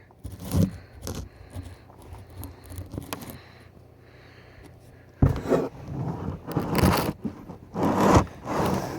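Handling noise from a camera being picked up and set in place. There are scraping, rustling and knocking sounds, faint at first and much louder from about five seconds in.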